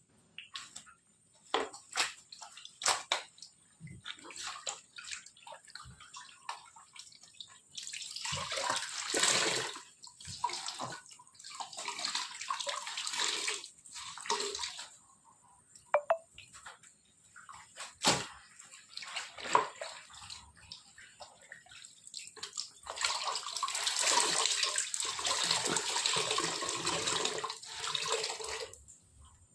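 Water pouring and splashing in several spells a few seconds long, the longest near the end, with scattered knocks and clatter in between.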